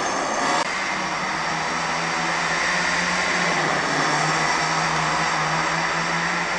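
Small two-stroke glow-fuel (nitro) engine, a Team Infinity .18 in a 1/10 RC monster truck, running steadily with a high-pitched buzz whose pitch wavers slightly. It is being broken in on light throttle.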